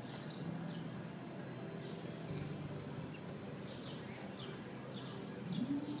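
Birds chirping in the trees: short, high, falling chirps every second or so over a steady low hum of background noise. Just before the end, a louder low sound rises in pitch.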